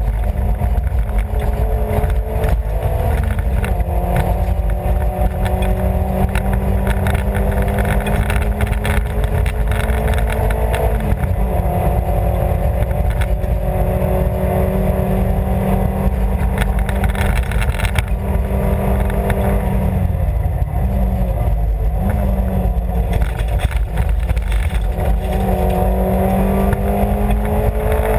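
Rally car engine at high revs, heard from inside the cabin over heavy road noise. Its pitch climbs slowly and drops sharply at gear changes about 4 and 11 seconds in, dips and recovers around 20 seconds in, and drops again at the very end.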